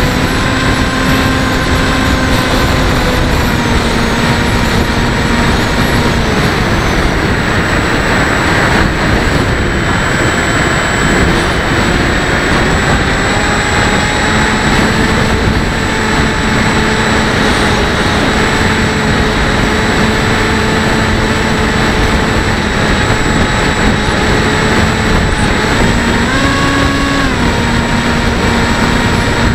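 Bixler 1.1's brushless electric motor and propeller whining in flight under loud wind rush on the microphone. The pitch drops a little about five seconds in as the throttle eases, and rises briefly near the end before settling back.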